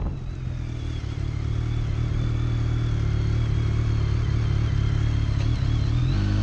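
Motorcycle engine running steadily, heard from the rider's seat, with a constant low drone; its pitch shifts about six seconds in.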